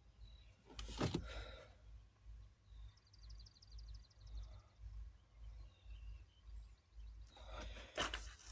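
Quiet handling noise over a steady low hum: a brief rustle about a second in and more rustling near the end, with a faint rapid high chirping or ticking in the middle.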